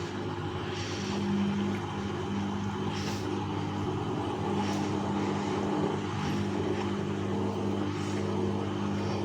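Bauknecht WAS 1400 washing machine running, with a steady motor hum and some swishing over it.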